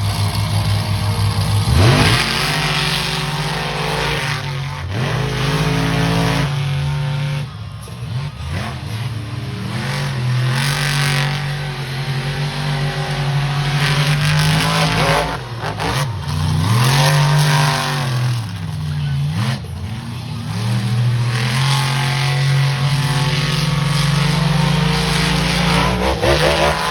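Monster truck engines revving hard, their pitch climbing and dropping again and again as the trucks accelerate and back off, with several deep engine tones at once.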